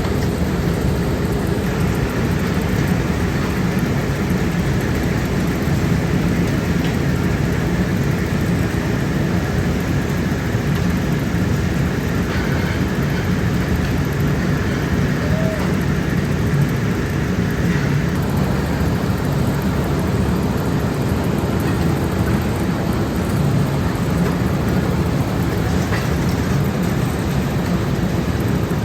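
Steady, loud factory machinery running continuously: a droning hum under a noisy mechanical din.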